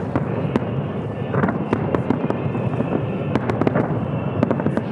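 Fireworks display: a dense, irregular run of sharp bangs and crackles, several a second, over a continuous rumble of bursting shells.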